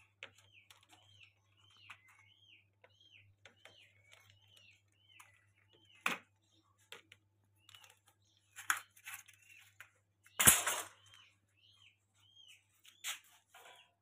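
A bird chirping over and over, short high chirps about two a second, over a faint steady hum. Eggs and plastic egg trays being handled knock and clatter now and then, the loudest a sharp bump about three-quarters of the way through.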